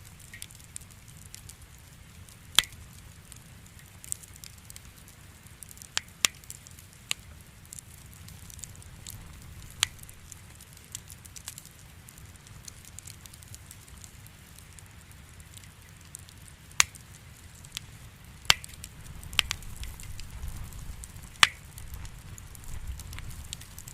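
Wood campfire burning, a steady low rumble of flame broken by scattered sharp pops and cracks of burning firewood, about nine of them, a few seconds apart.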